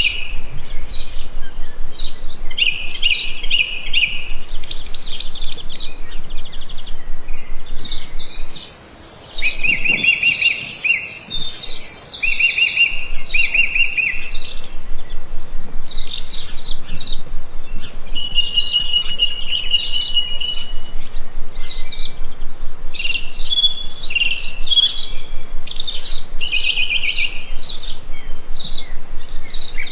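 Several birds chirping and singing at once, with quick overlapping chirps and repeated trills throughout and one longer held whistle partway through.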